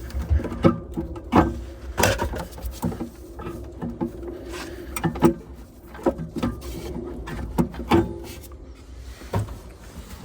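Boiler parts being handled during dismantling: irregular metallic clicks, knocks and clinks as the clamp and fan assembly are worked loose by hand.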